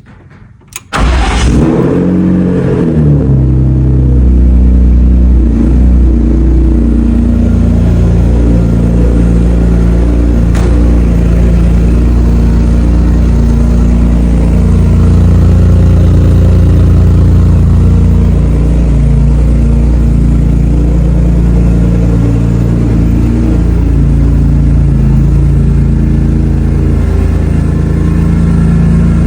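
3.5-litre engine with a catless exhaust, no resonator and a Vibrant muffler, catching suddenly about a second in. Its revs flare and fall back over the next couple of seconds, then it runs on at a steady idle.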